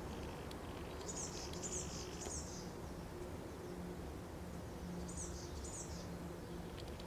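A small bird chirping with short, high notes: three in quick succession about a second in, then two more around five seconds in. Underneath is a steady low background hum.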